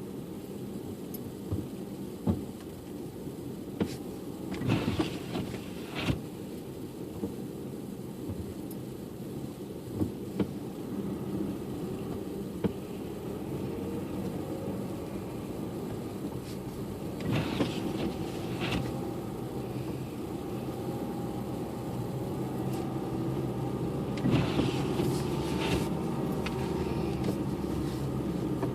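Car driving, a steady low engine and road rumble, with a few short scraping or knocking bursts scattered through it.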